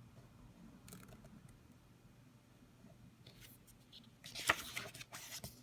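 Paper rustling as a picture-book page is turned, a brief crackly swish about four seconds in, after a few faint taps.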